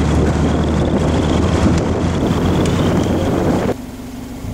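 Road, wind and engine noise inside a moving car, with a steady low hum. The noise drops off suddenly near the end, leaving a quieter steady drone.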